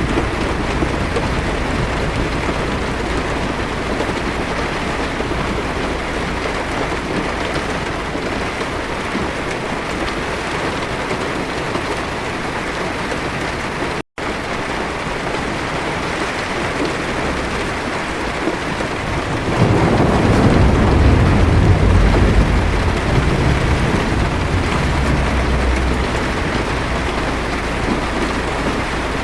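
Heavy rain drumming steadily on a car's roof and windshield. About two-thirds of the way in, a low thunder rumble swells up and fades over several seconds. Near the middle, the sound cuts out for a split second.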